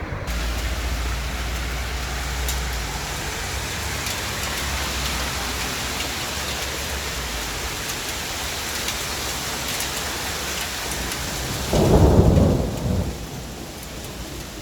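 Thunderstorm: steady heavy rain with low rumbling thunder, then a loud, short boom of close thunder near the end, the loudest sound.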